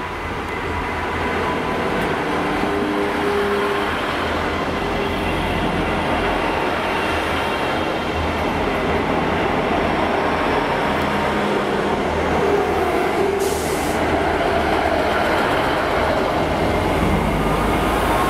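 Great Western Railway Class 158 diesel multiple unit pulling into the platform and running past close by: a steady, loud rumble of underfloor diesel engines and wheels on rail, growing a little louder as it comes alongside, with thin squealing tones at times.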